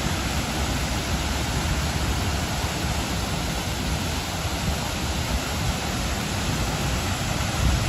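Waterfall: a steady, unbroken rush of falling water, full and deep.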